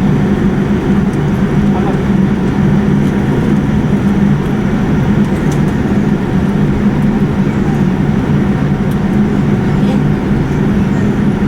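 Steady cabin noise inside a Boeing 787-9 airliner: an even rumble with a low hum, unchanging throughout.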